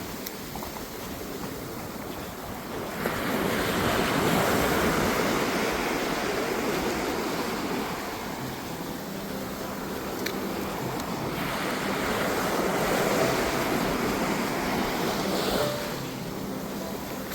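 Sea waves breaking on a sandy beach, the surf swelling and fading in long surges a few seconds apart, with some wind.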